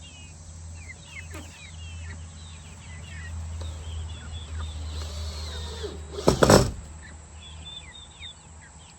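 Birds chirping in short, falling calls over the steady low hum of a running portable generator, with a brief loud burst of noise lasting about half a second roughly six seconds in.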